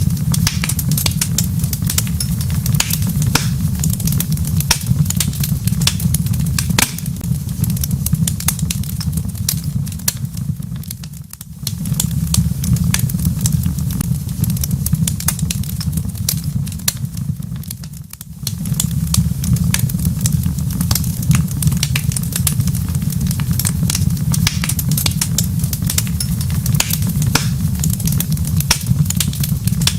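Wood fire crackling in a fireplace: a steady low rumble with frequent sharp pops and snaps. The sound briefly dips twice, about 11 and 18 seconds in.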